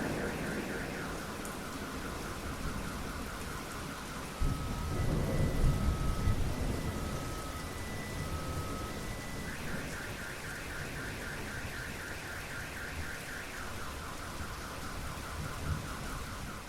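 Steady rain with a rumble of thunder swelling about four seconds in. Over it a car alarm cycles through its tones: rapid repeating chirps, then a slow alternating two-tone beep, then rapid chirps again.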